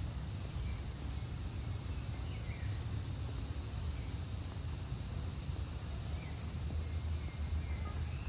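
Outdoor street ambience: a steady low rumble with scattered short, high bird chirps.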